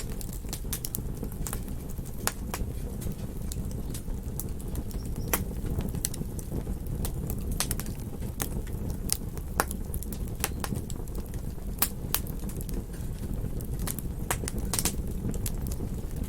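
Campfire burning: wood crackling and popping at irregular intervals over a steady low rush of flame.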